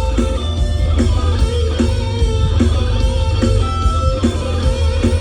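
Live rock band playing an instrumental passage between sung verses: electric guitar over bass and drums, with a steady slow beat a little over one stroke a second.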